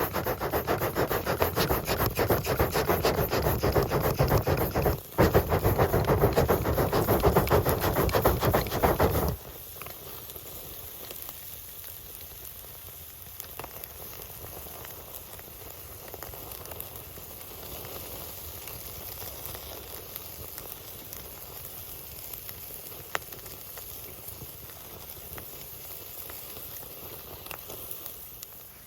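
Bacon-wrapped asparagus sizzling and crackling over a campfire. A loud, dense crackle runs for about nine seconds, with a brief break near five seconds, then cuts off abruptly. A much quieter steady hiss with scattered pops follows.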